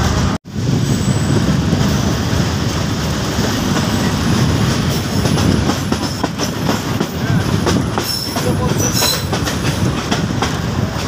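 Passenger train coaches running along the track, heard from an open coach doorway: a steady rumble with wheels clacking over the rail joints and short high wheel squeals near the end. The sound cuts out for a split second near the start.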